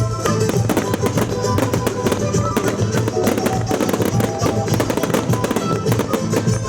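Music for a fireworks display playing over loudspeakers, with fireworks bursting and crackling many times over it.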